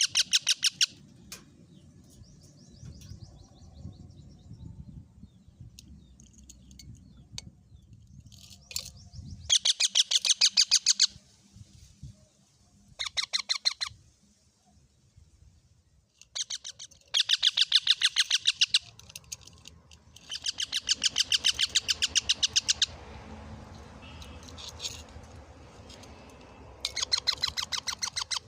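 Pet parrot calling in bursts of rapid, repeated shrill chirps, about ten a second, each run lasting one to three seconds with quieter pauses between.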